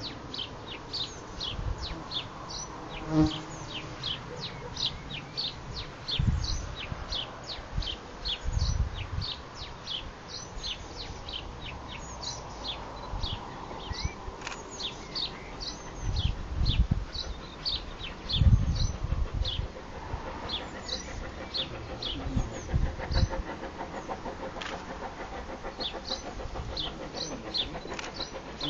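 Birds chirping, a rapid run of short high chirps that slide downward, kept up throughout, with occasional low rumbles underneath.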